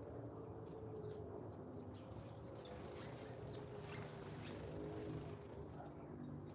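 Faint garden birdsong: a scatter of short, high, quick chirps from small songbirds, mostly in the middle, over a steady low hum.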